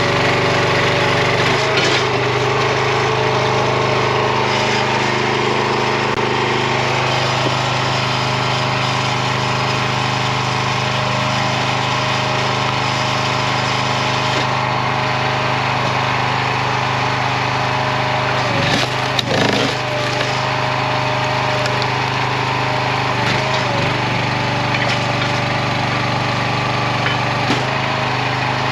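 Small gas engine of a RuggedMade log splitter running steadily, its pitch shifting slightly as the hydraulic ram works, with a brief cracking of wood being split about two-thirds of the way through.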